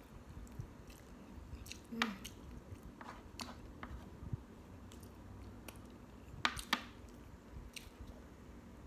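Close-miked chewing and mouth sounds of a person eating. A few sharp clicks cut through: one about two seconds in and a quick pair a little past six seconds.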